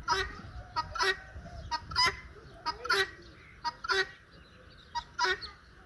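Domestic turkey calling over and over, about once a second, each call a harsh paired note, the second louder than the first.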